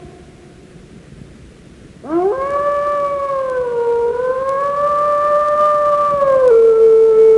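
A canine howling: after about two seconds of quiet, one long howl rises sharply in pitch, wavers up and down, then drops to a lower steady note near the end.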